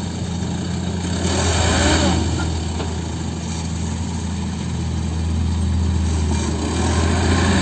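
Heavy diesel engine running steadily at a low pitch, swelling slightly about two seconds in and again near the end.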